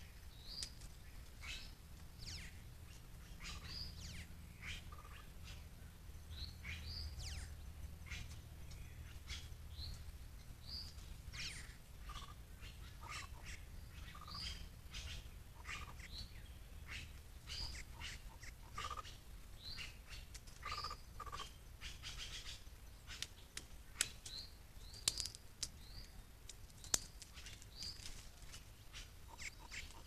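Several wild birds calling in woodland: many short, high chirps and call notes repeating throughout, over a steady low hum, with a few sharp clicks near the end.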